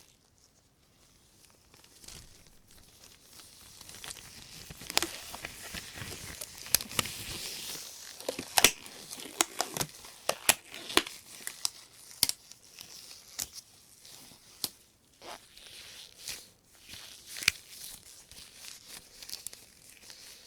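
Rubber-gloved hands rustling and crinkling a thin white plastic shopping bag, with many sharp crackles. It is almost quiet for the first couple of seconds and busiest in the middle.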